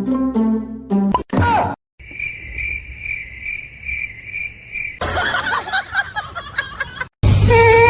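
Even, high-pitched chirping repeating about three times a second for a few seconds, after a brief bit of music; mixed noise follows near the end.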